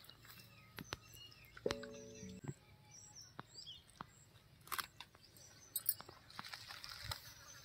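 Faint birds chirping, with scattered light clicks and taps and a short pitched note about two seconds in.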